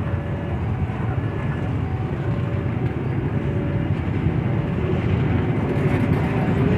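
Train running, a steady low rumble that slowly grows louder, with faint short high tones coming and going over it.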